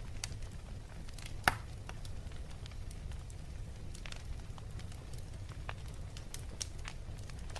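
Wood fire in a fireplace crackling: scattered sharp pops, the loudest about a second and a half in, over a steady low rumble of the flames.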